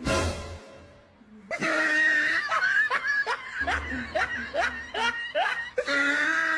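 A person laughing in a string of short falling-pitch bursts, about two a second, after a brief sound that fades out in the first second.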